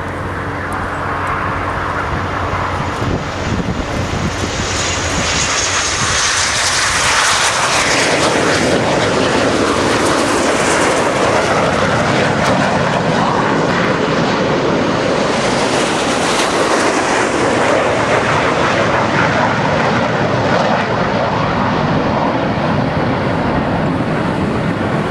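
Red Arrows BAE Hawk T1 jets taking off, their Adour turbofan engines at take-off power. A loud rushing roar builds from about four seconds in, with a brief high whine, then holds and swells again about sixteen seconds in.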